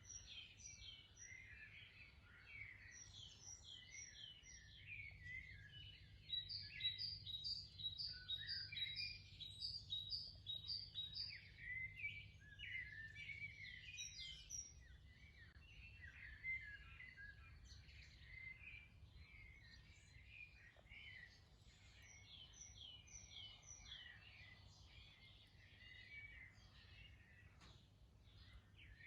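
Faint dawn chorus of several garden songbirds, Eurasian blackbirds among them, singing and chirping without a break. One bird gives a quick series of about ten even notes partway through.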